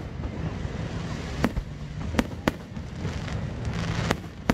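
Fireworks display: several sharp bangs of shells bursting overhead at uneven intervals, over a steady background rumble.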